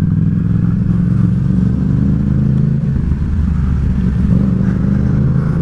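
Yamaha XSR700's parallel-twin engine running at a fairly steady speed while the bike rides along, its pitch wavering slightly.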